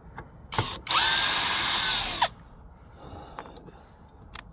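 Power drill driving a screw: a short blip, then about a second in the motor runs for about a second and a half with a steady whine that drops in pitch as it stops.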